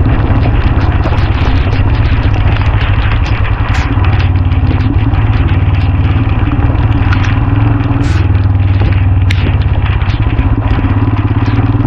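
Royal Enfield Himalayan's single-cylinder engine running steadily while the motorcycle is ridden along at a constant pace.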